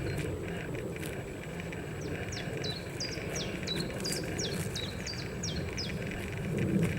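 A small songbird singing a quick series of about ten short, sharply falling whistled notes, a little under three a second, over a steady low outdoor rumble.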